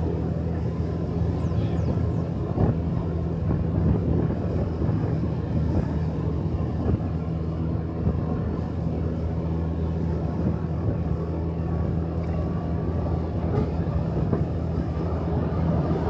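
Motorcycle engine running steadily while riding, a steady low drone with road and wind noise over it.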